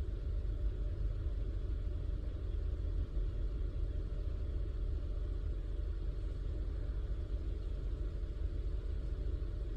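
Car engine idling steadily: a low, even rumble.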